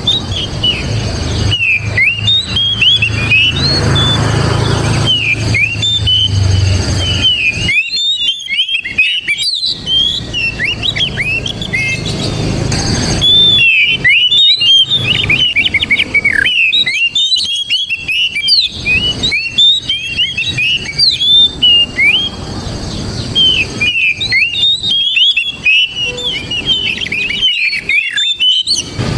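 Oriental magpie-robin singing: fast, varied whistled phrases with quick up-and-down slurs, delivered in long runs broken by short pauses. A low rumble sits under the song in places.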